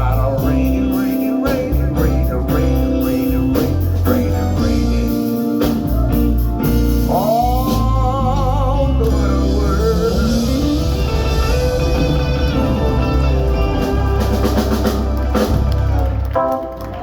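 A live band playing a slow soul ballad on drum kit, bass and guitar, with singing and a wavering line in the middle. The music drops down just before the end.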